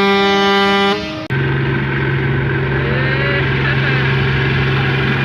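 A loud, steady horn blast lasting about a second, then after an abrupt break a tractor engine running at a steady pitch.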